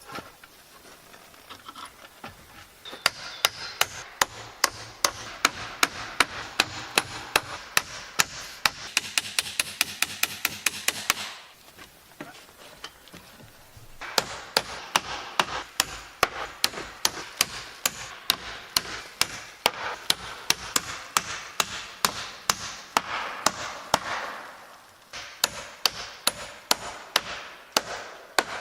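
A hand tool working wood in quick, even strokes, about three or four a second, in three runs with two short pauses.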